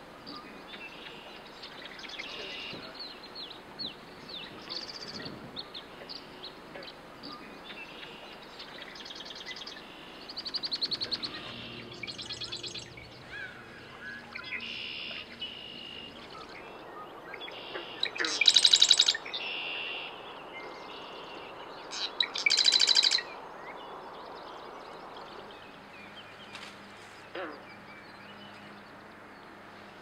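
Several birds calling: a steady scatter of short chirps and whistles, broken by a few loud, rapid chattering calls, the two loudest in the second half.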